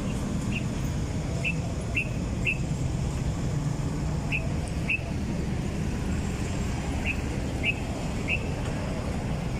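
Steady wind and road rumble from riding a bicycle, with short high chirps repeating about twice a second in groups of two or three.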